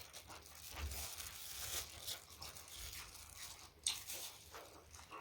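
Close-miked chewing and crunching of food, wet and crackly mouth sounds with many small clicks and one sharp click about four seconds in.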